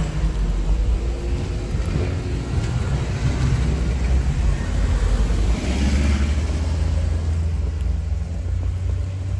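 Motor vehicle engine running close by with a steady low rumble, and a vehicle passing with a brief swish of tyres about six seconds in.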